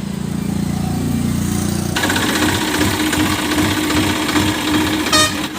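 Tractor diesel engine running with a rough rattle. About two seconds in it turns suddenly louder and harsher, with a steady whine over it, as if put under load or revved.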